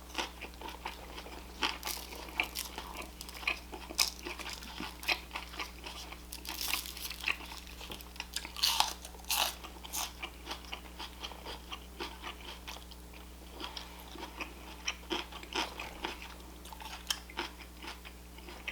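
Close-up eating sounds: a person biting and chewing food with irregular crunches, crackles and mouth clicks, thickest in the first half, with a loud cluster about nine seconds in. A steady low hum runs underneath.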